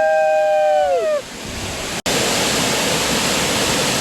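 Two voices holding a long, high 'woo' together, both dropping in pitch and ending about a second in. After a sudden cut at about two seconds comes the loud, steady rush of a waterfall.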